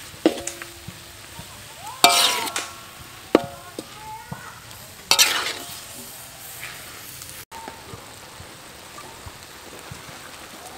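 Pork belly pieces sizzling in a wok as they fry in brown sugar and thick soy sauce, while a metal ladle stirs and scrapes them. The ladle strikes the wok with a ringing clang several times, loudest about two and five seconds in, over a steady sizzle.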